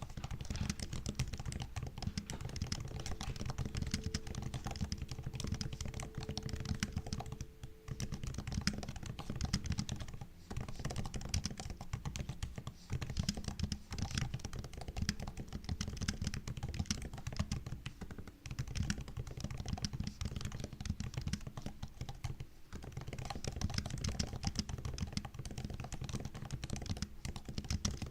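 Fast, continuous typing on a MacBook's built-in laptop keyboard: a dense run of soft key clicks and taps with a few brief pauses.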